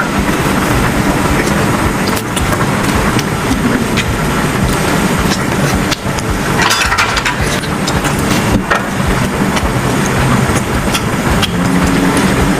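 A train running along the tracks: a steady rumble and hum with scattered sharp clicks from the wheels.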